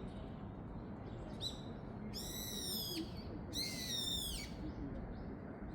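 A bird calling: a short chirp, then two long, slightly falling, rich-toned calls about a second apart.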